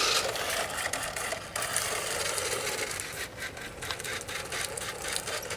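Battery-powered RC drift car's motor and drivetrain running weakly in uneven spurts, with many irregular clicks, as its battery runs flat.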